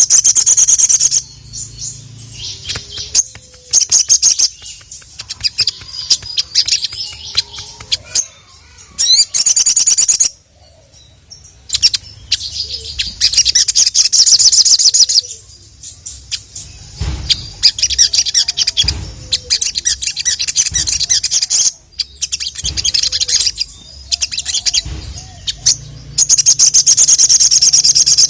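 Sogon (ruby-cheeked sunbird) singing: bursts of very rapid, high trilled notes, repeated again and again with short pauses between them.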